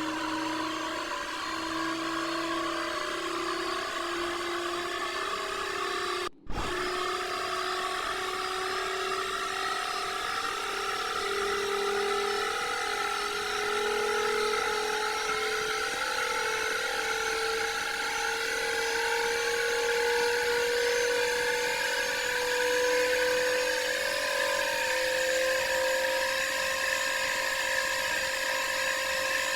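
Candy washing machine spinning, its motor whine rising steadily in pitch as the drum speeds up. The sound drops out for an instant about six seconds in.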